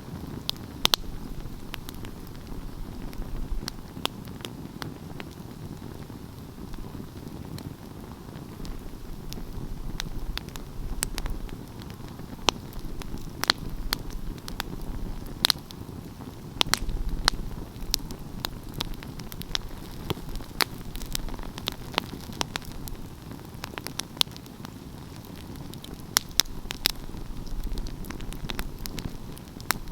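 Wood fire burning: a steady low rumble of flames with irregular sharp crackles and pops from the burning wood, some in quick clusters.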